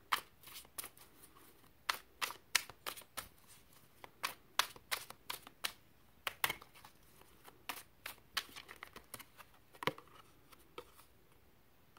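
Tarot cards being shuffled and handled: a run of irregular quick snaps and flicks of card stock that stops about a second before the end.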